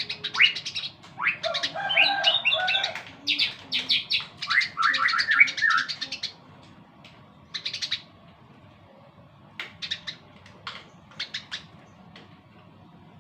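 Eurasian tree sparrows chirping in a rapid, dense chatter for about six seconds, then thinning to scattered single chirps.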